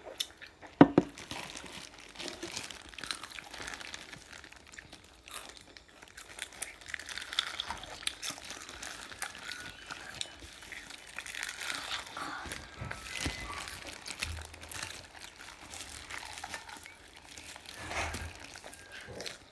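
Close-up eating of honey-glazed fried chicken: crisp bites and chewing with crinkling of the wrapping or box. A single sharp knock about a second in.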